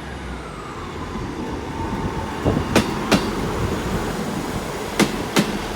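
Class 158 diesel multiple unit arriving at a station: a whine falling in pitch as it slows, then its wheels clicking over rail joints in pairs, two clicks about half a second apart, twice.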